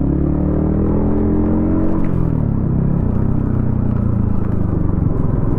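Yamaha XSR155's single-cylinder engine through a DIY exhaust, rising in pitch under throttle for about two seconds, then dropping sharply as the revs fall, then running steadily.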